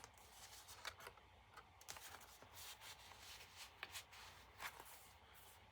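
Faint, scattered rustles and light clicks of paper and card being handled: journal pages, tags and file folders moved about.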